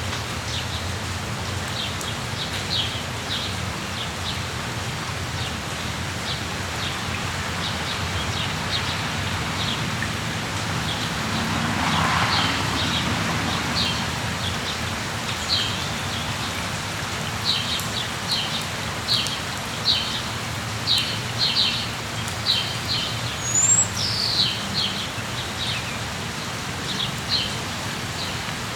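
Steady rain falling, with small birds chirping in short high notes over it, more often in the second half. The rain swells briefly about midway.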